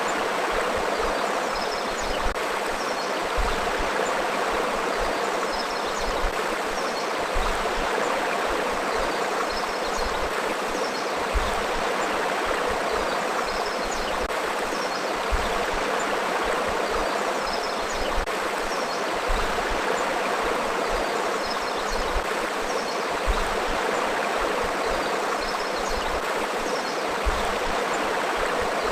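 River water flowing steadily over rocks, a continuous rushing and babbling with occasional brief louder splashes.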